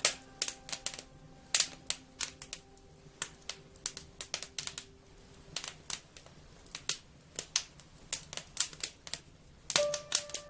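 Wood fire crackling, with irregular sharp pops and snaps at varying loudness. Faint held musical tones fade out about halfway through and come back near the end.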